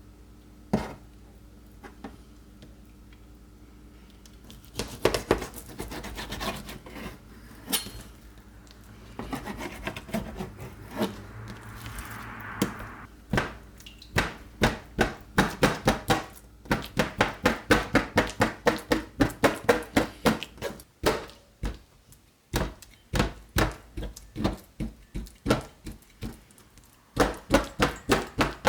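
Kitchen prep on a cutting board: scattered knocks and handling at first, then long runs of rapid, regular taps, about three to four a second, with short breaks, as a utensil strikes the board repeatedly.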